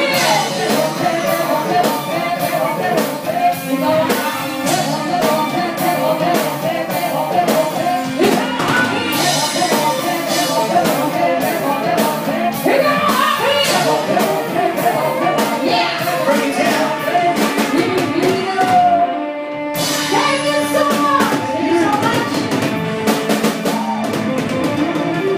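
Live band playing a rock song with drum kit and a singing or lead melody line; the music breaks off for a moment about three-quarters through, then comes back in.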